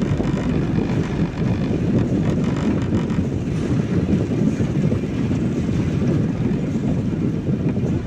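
Steady road noise heard inside a car driving on wet roads in the rain.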